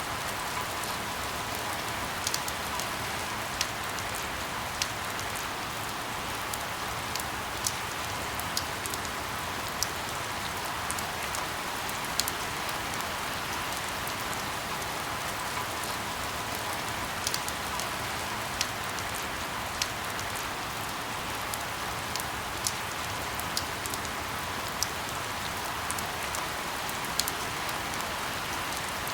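Steady rain falling, an even hiss with scattered sharp ticks of single drops about once a second.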